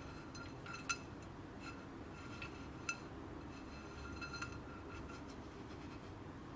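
Light clinks and taps of kitchenware: glass or ceramic items touching, each with a short ringing tone. The two loudest clinks come about a second in and about three seconds in.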